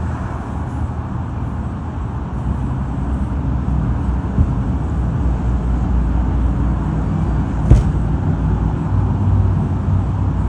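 Steady low rumble of vehicle noise, with one sharp click a little past two-thirds of the way through.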